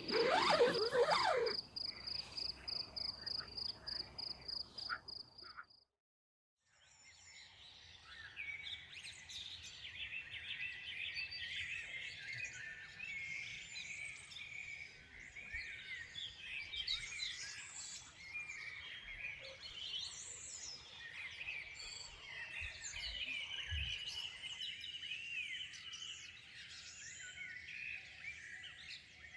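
Crickets chirping in a steady high pulse, about four pulses a second, which cuts off after about six seconds. After a moment's silence comes a dense chorus of many songbirds singing at once.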